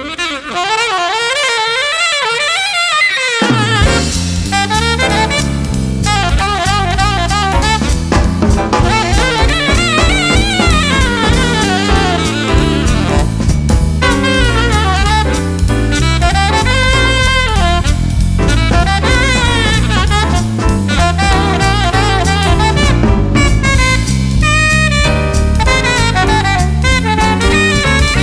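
Jazz band playing: a saxophone carries a wavering, vibrato-laden melody alone, then bass and drum kit come in under it about four seconds in and keep a steady swing beat.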